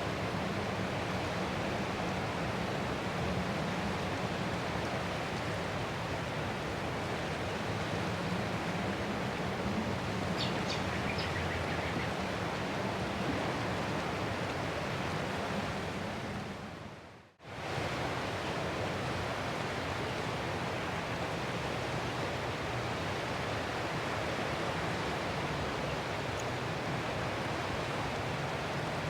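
Ocean waves making a steady, even rush of noise with no clear swells. About seventeen seconds in it fades out to near silence for a moment and comes straight back, like a loop seam.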